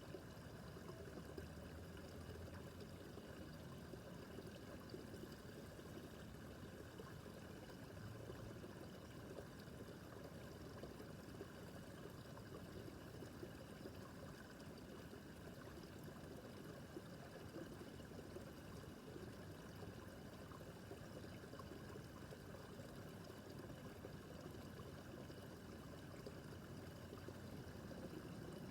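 A small brook babbling over stones: a steady, soft rush and trickle of running water.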